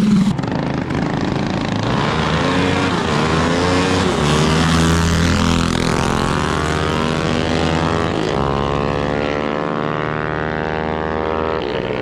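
Small mini bike engine revving hard, its pitch climbing, dropping sharply about eight seconds in, then climbing again.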